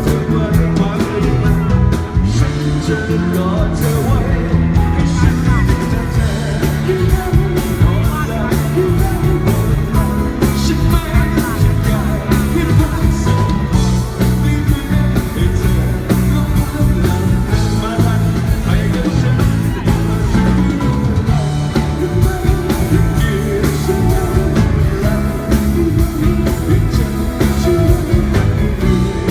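A live rock-pop band playing with a singer, loud and steady with a heavy bass.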